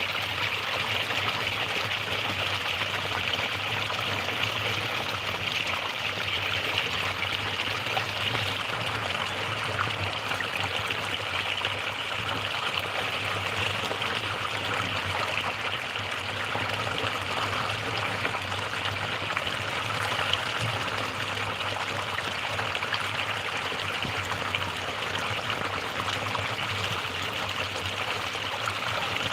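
Water flowing steadily, a continuous rushing and trickling.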